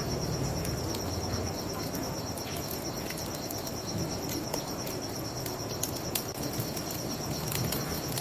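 Crickets chirping in a steady, rapidly pulsing trill, with the scattered sharp crackles and pops of a burning wood fire over a low rumble of flames and water.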